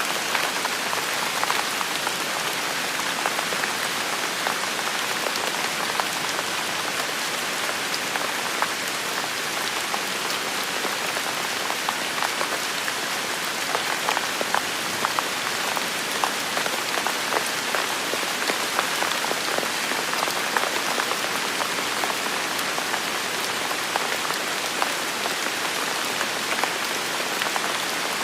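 Steady rain falling on hard surfaces, an even hiss with many sharp, close drop ticks.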